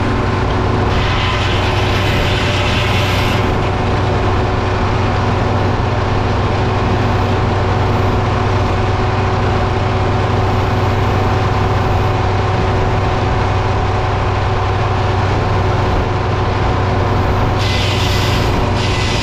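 Sawmill running: a steady engine drone with a strong low hum, and a brighter hiss briefly about a second in and again near the end.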